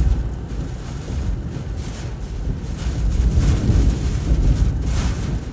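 Hurricane-force wind blowing in heavy gusts and buffeting the microphone, a deep noisy rush that swells louder about three seconds in.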